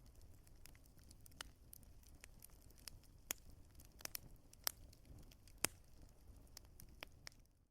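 Wood fire crackling: irregular sharp pops and snaps over a low, steady rumble, a few pops louder than the rest, fading to silence at the very end.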